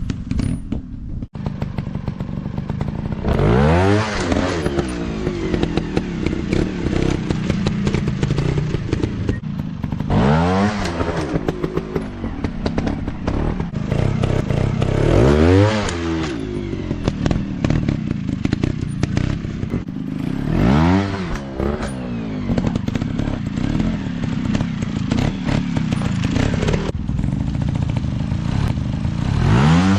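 Off-road motorcycle engines running steadily, the throttle opened five times in short revs whose pitch climbs sharply and falls straight back, each lasting about a second.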